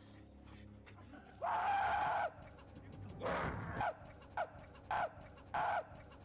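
A series of high, squawking, animal-like calls: one long call about a second and a half in, then four shorter ones, each dropping in pitch as it ends.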